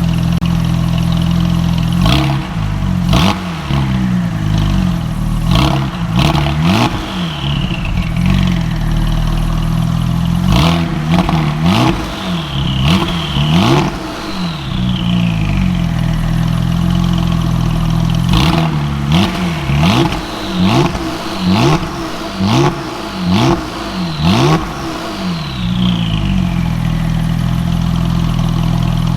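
Porsche 996 Turbo's twin-turbocharged flat-six idling and being blipped over and over in short, sharp revs, in clusters from about two seconds in until near the end. A falling whistle follows several of the blips.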